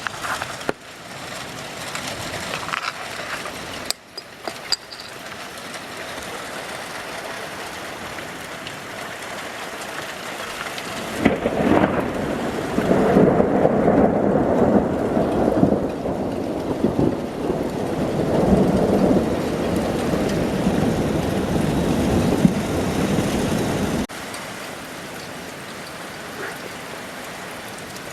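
Steady rain hiss, then about eleven seconds in a long, loud rumble of thunder that rolls for some thirteen seconds and cuts off suddenly.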